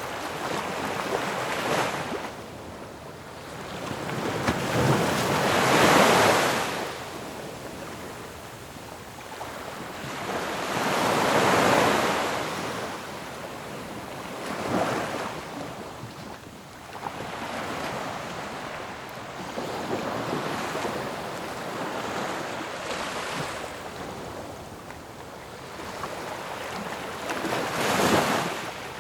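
Ocean waves breaking on a shore, a continuous surf wash that swells into a louder crash every several seconds, with the biggest breaks about 6, 12 and 28 seconds in.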